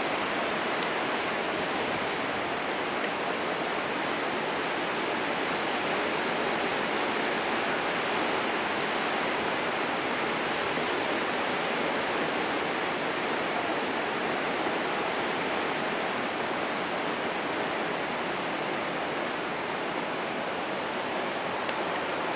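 Steady, even rushing noise that holds at one level throughout, with no distinct rhythm or pitch.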